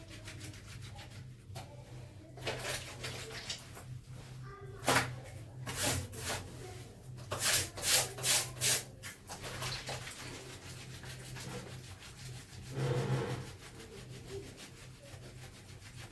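Clothes being scrubbed by hand: a run of rough rubbing strokes, with several quick ones close together near the middle, over a steady low hum.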